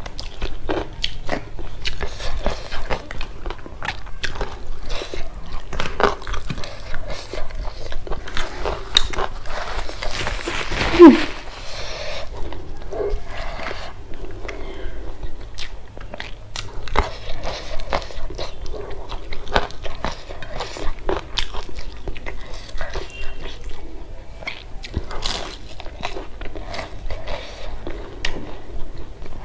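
Close-miked eating by hand of rice, fried fish and fritters: irregular chewing, wet mouth clicks and crunching. A short loud mouth sound with a falling pitch comes about eleven seconds in.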